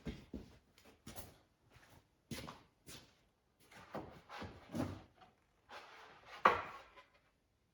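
Wooden drawers sliding and knocking: a run of separate short wooden knocks and scrapes with quiet gaps between them, the loudest about six and a half seconds in.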